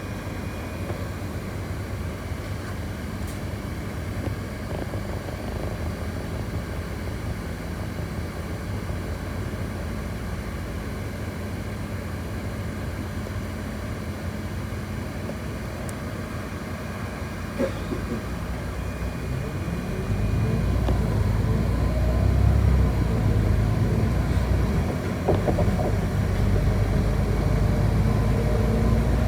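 City bus in motion heard from inside the passenger cabin: a steady rumble of drivetrain and road noise that swells sharply about two-thirds of the way through as the bus picks up speed, with a faint rising whine near the end.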